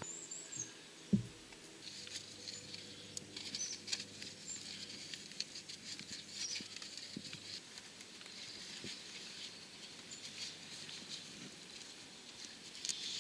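Faint scratchy rubbing with scattered small clicks as grease is worked onto the splined transmission shaft by hand, with one sharper click about a second in.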